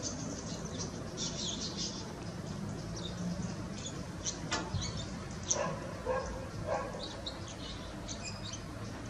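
Small birds chirping now and then in short high calls over a steady low background hum, with a few lower-pitched calls about two-thirds of the way through.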